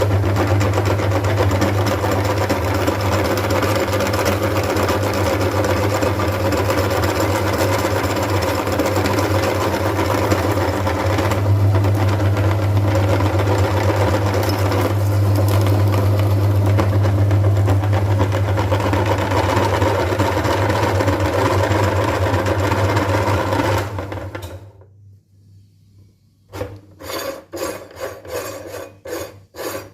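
Electric meat grinder motor running with a steady hum while grinding umbrella wafers. It stops about 24 seconds in, and after a short pause a rhythmic scraping begins, about two or three strokes a second.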